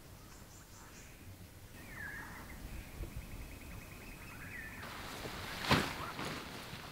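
Faint bird calls: a short falling call, then a long, even trill. A single sharp click or snap comes near the end and is the loudest sound.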